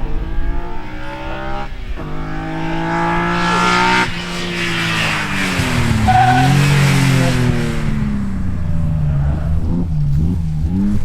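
Rally car engine accelerating hard, pitch climbing with a gear change about two seconds in, then cutting off sharply about four seconds in. A rushing noise follows as the car passes, its engine pitch falling and wavering.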